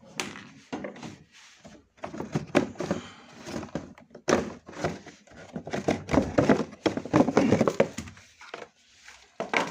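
Irregular knocks, thunks and rattles of a switched-off refrigerator being handled at the back, around its compressor, with the busiest clatter in the middle seconds.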